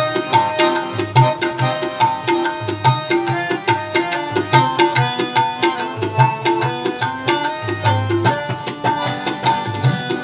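Instrumental interlude of a devotional Sikh song: tabla playing a steady rhythm under a held, sustained melody.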